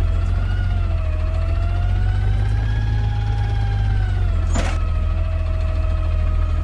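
Garbage truck running with a heavy low engine drone and a steady whine that slowly wavers up and down in pitch. The drone eases slightly about four seconds in, and a short burst of noise follows just after.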